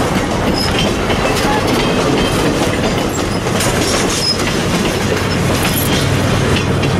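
Railroad cars and a caboose rolling past at trackside: a steady rumble with wheels clicking over rail joints and a few brief high wheel squeals.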